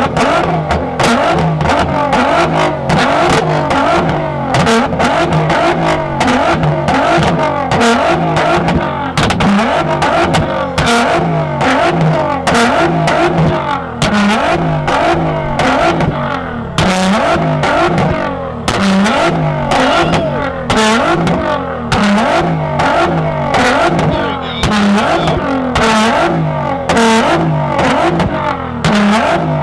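Nissan GT-R held on its two-step launch limiter, its revs pulsing up and down against the limiter over and over while the exhaust fires a rapid, irregular stream of loud pops and bangs.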